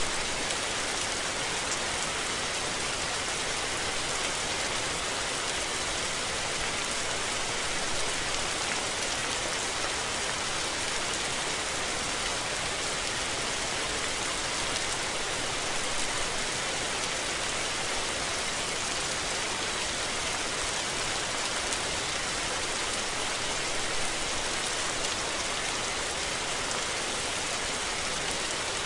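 Steady rain falling, a dense, even hiss of drops that holds at the same level throughout, with no thunder.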